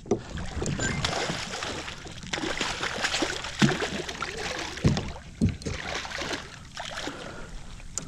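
Water splashing and sloshing at a kayak's side, with a few sharp thumps, as a hooked redfish thrashes at the surface while being brought to the boat.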